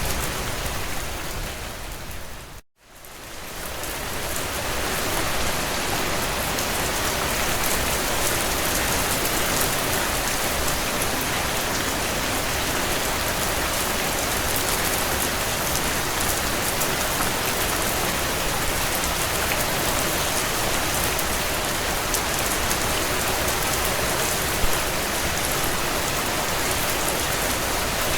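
Steady heavy rain on window glass, mixed with a crackling wood fire in a fireplace that gives small scattered pops and one louder pop near the end. About two and a half seconds in, the whole sound drops briefly to silence and then swells back up within a second or so.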